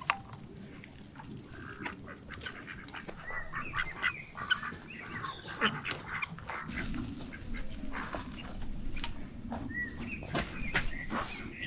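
Birds calling in short, pitch-bending calls, in a cluster over the first few seconds and again near the end, with scattered sharp clicks in between.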